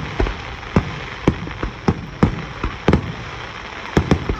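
Fireworks bursting overhead in quick succession, sharp bangs about every half second over a steady crackle of burning stars.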